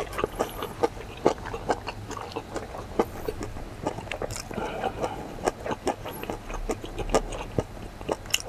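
Close, wet chewing and lip-smacking of a person eating mixed rice, with a wooden spoon scraping and tapping in a stainless steel bowl: a run of short, irregular clicks and smacks.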